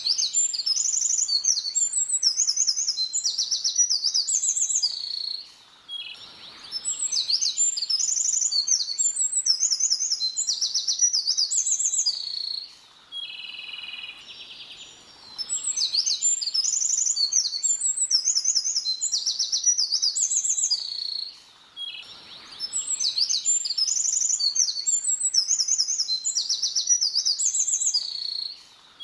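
A small songbird singing a rapid, high-pitched, varied song in phrases of about five or six seconds, with short pauses between them.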